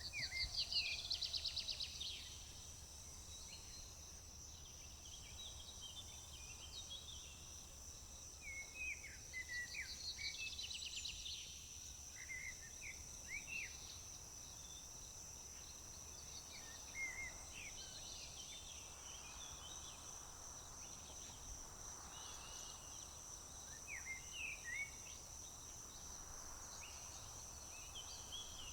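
Songbirds singing: two bursts of rapid trilled song, one at the start and one about nine seconds in, with scattered short chirps in between. A steady high-pitched insect drone runs underneath.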